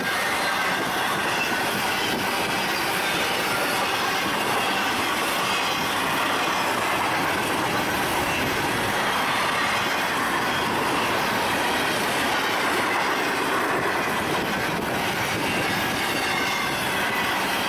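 Union Pacific train cars rolling steadily past, with the wheels squealing on the rails.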